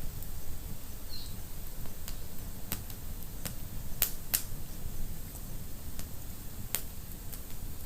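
Wood fire in a fireplace crackling, with about half a dozen sharp pops scattered over a low steady rush of flame; the loudest are two pops in quick succession about four seconds in.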